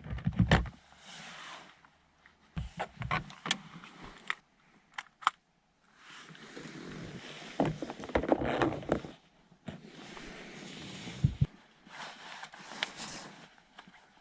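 Objects being handled and moved about: a string of irregular clicks and knocks with stretches of rustling and scraping between them.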